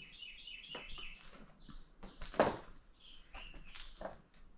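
A bird chirps a quick run of short high notes in the first second. Scattered knocks follow, with a louder thud about two and a half seconds in.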